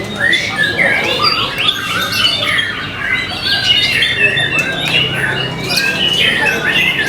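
White-rumped shama (murai batu) singing a quick, unbroken stream of short, varied notes that sweep up and down in pitch.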